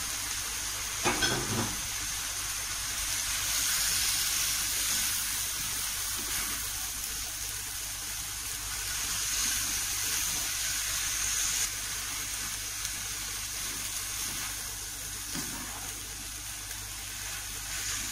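Boiled noodles sizzling in oil in a nonstick wok, stirred and tossed with a plastic spatula; a steady hiss with scraping and stirring sounds, and a short knock about a second in.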